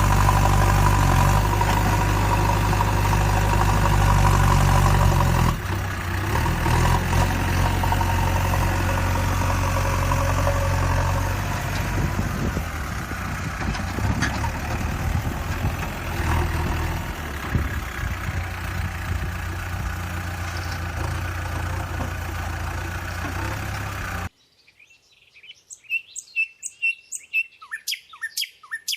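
An engine runs steadily with a low hum, a little quieter after about five seconds, then cuts off abruptly. Birds chirp in short repeated calls near the end.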